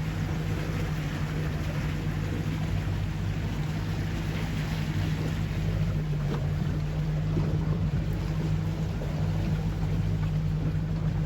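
Outboard-powered tour boat motor running steadily at cruising speed, a constant low hum with the rush of water and wind around the hull.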